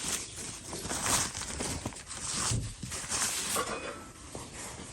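Irregular rustling and crinkling with small clicks and light knocks, typical of handling a bag and picking out sweet bread.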